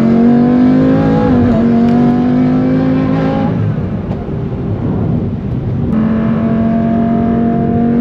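BMW M3 E46's swapped-in S85 V10 engine at full throttle, its pitch climbing steadily. About three and a half seconds in the note breaks off for about two seconds during an upshift, then returns lower and climbs slowly again in the higher gear.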